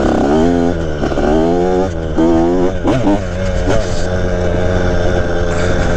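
Dirt bike engine being ridden, revving up and easing off several times in the first three seconds, then running more steadily.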